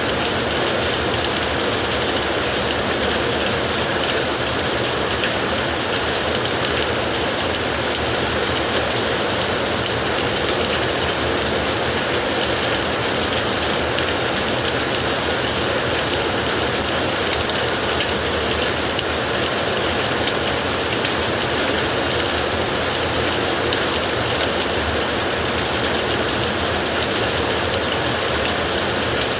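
Heavy rain on a tin roof: a dense, steady hiss of drops with no let-up.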